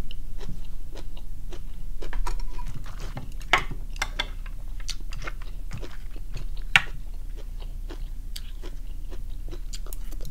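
Close-up chewing and crunching of a mouthful of steamed squid and salad, with scattered small clicks and two sharper clicks, one about a third of the way in and one about two-thirds in. A steady low hum runs underneath.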